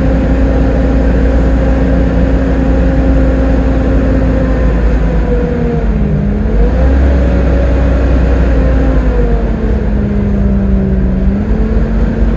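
Volvo B7TL double-decker bus under way: a loud, hoover-like drivetrain whine over the engine's low rumble. The whine holds steady, dips in pitch about halfway through as the bus slows and pulls away again, then falls slowly near the end.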